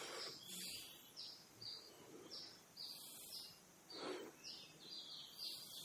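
Faint bird chirping: a string of short, falling notes a few times a second, over a low background hiss.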